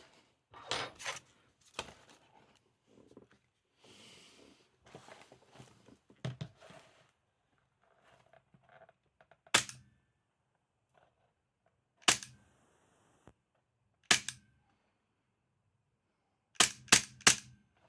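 KWC Taurus PT24/7 PRO DS airsoft gas pistol being handled with soft clicks and rustling, then fired: three single sharp shots about two seconds apart, then a rapid string of three near the end.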